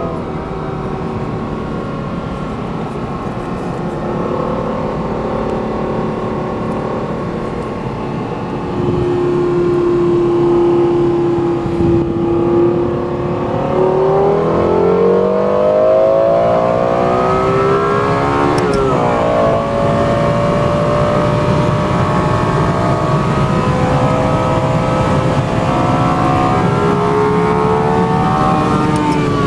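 Lexus LFA's V10 engine heard from inside the cabin, first cruising steadily, then revving hard under acceleration. About halfway through, the engine note climbs steeply for several seconds, drops sharply for a moment, then holds at high revs and keeps rising slowly.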